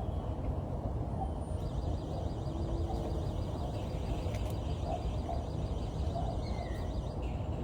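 Scattered short bird calls and chirps around a feeder over a steady low rumble of wind or distant traffic.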